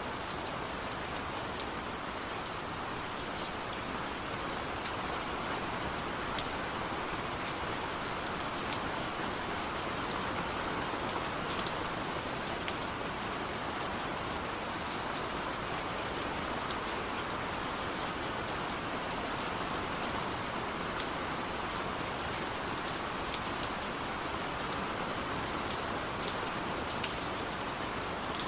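Steady rain falling, with scattered sharp ticks of single drops hitting close by.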